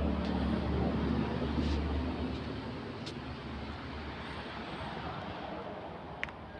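Mitsubishi 56-inch flat-head ceiling fan running, with a steady low motor hum under a rush of air that slowly grows quieter. There are a few faint ticks and one sharper tick about six seconds in.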